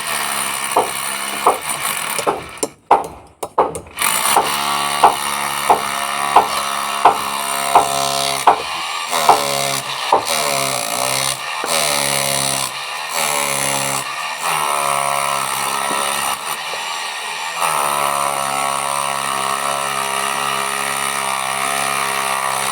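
Electric hammer drill running under load, its motor whine wavering as the bit works into cement. Sharp knocks come about every half second for the first ten seconds. The drill stops briefly about three seconds in, then runs on steadily.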